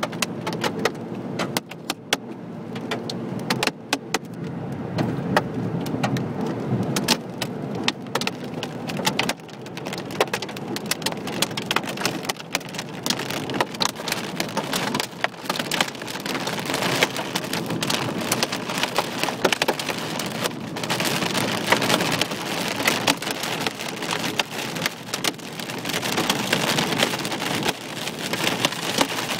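Nickel- to quarter-size hail pelting a moving car's roof and windshield, heard from inside the cabin: a dense, irregular rattle of sharp clicks over the car's steady road noise.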